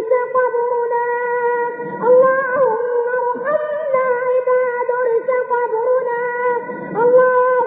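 A solo voice chanting an Arabic supplication (dua) in a melodic recitation style, with long held, high notes ornamented by small turns and slides in pitch.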